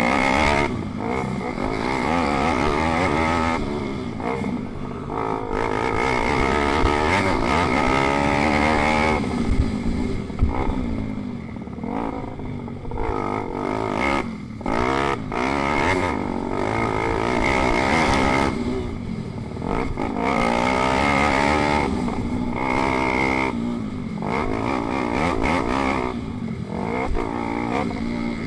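Pit bike engines racing, revving up and falling back again and again, with brief sudden drops in the sound.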